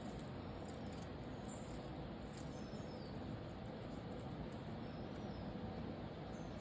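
Steady background hiss with a few faint, short, high-pitched bird chirps now and then.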